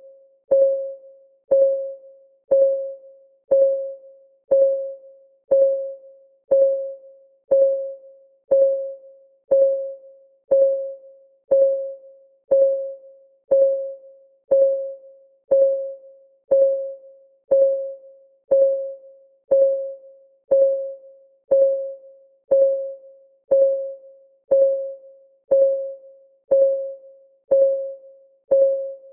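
Countdown timer's clock ticking sound, one tick a second, each a short pitched tock that dies away quickly.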